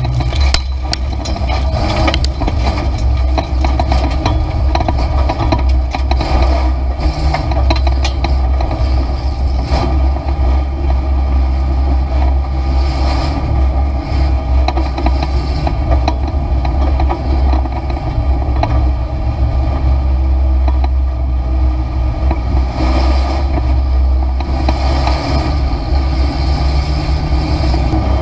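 Race car engine running steadily, heard from inside the stripped cabin, with a strong low rumble and frequent rattles and clicks.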